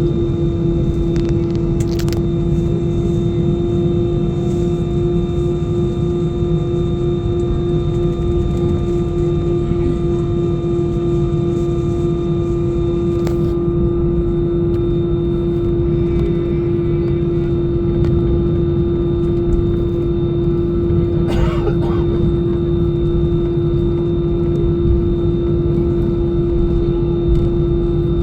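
Airbus A320 jet engines heard from inside the passenger cabin: a steady low rumble with a constant humming tone over it, holding even throughout.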